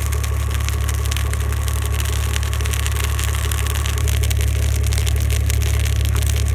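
Burning brush in a fire pit crackling and popping, over the steady low hum of an idling engine that gets slightly louder about four seconds in.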